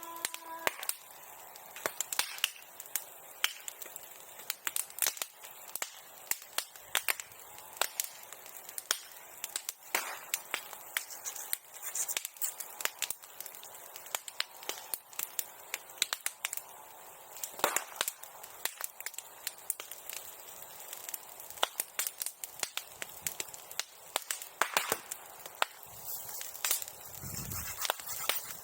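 Bonfire of old sericulture tools burning, crackling with many sharp, irregular pops. A couple of dull low thumps come near the end.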